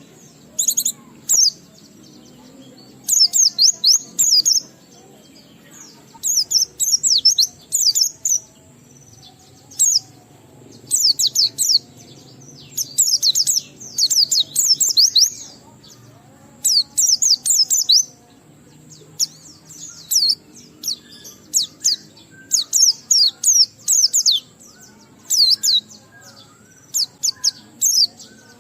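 Pleci (white-eye) singing in 'ngalas' style: rapid bursts of high, quick sweeping twittering notes, each phrase a second or two long, repeating with short pauses between them.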